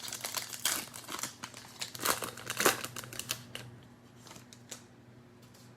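Cellophane wrapper of a trading-card pack crinkling as it is handled and torn open, a dense crackle for the first few seconds with a few sharper crackles, then only light rustles near the end.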